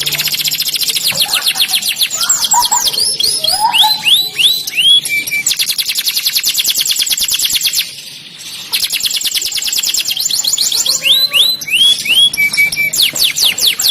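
Domestic canary singing: fast rolling trills of quickly repeated, falling notes, mixed with slower swooping phrases. The song breaks off briefly about eight seconds in, then starts again.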